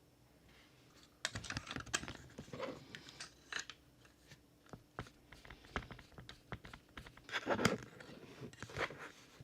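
Hands handling the small plastic and metal parts of a 1:18 scale diecast model car: a quick, irregular run of clicks, taps and short scrapes, starting about a second in, with a louder cluster near the end.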